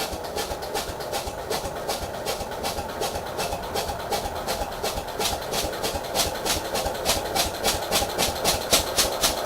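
Case 220 hydraulic-drive garden tractor engine being cranked over in a cold start attempt after sitting for three months, its turning making an even rhythm of pulses, about five a second, that grow louder about halfway through.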